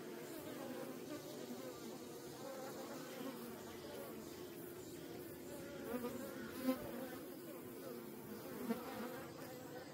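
Many Korean native honeybees buzzing at their wild nest, a steady hum with a few brief louder swells near 6 and 9 seconds as single bees pass close by.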